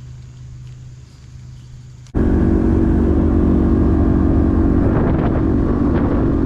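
A boat motor running steadily, with wind on the microphone. About two seconds in, the sound jumps abruptly to a much louder, steady engine drone.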